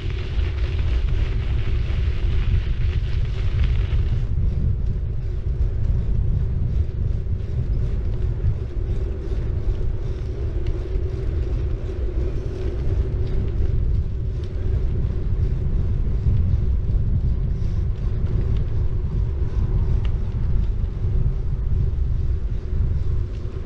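Bicycle riding along a road: the tyres rolling with a steady hum, under a heavy low rumble of wind and road vibration on the bike-mounted action camera's microphone. A higher hiss over the top stops about four seconds in.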